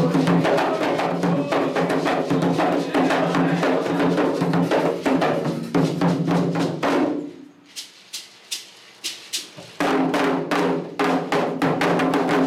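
Candomblé atabaque drumming, fast and dense. About seven seconds in, the drums break off and only a few scattered strikes are left. About ten seconds in they come back in together.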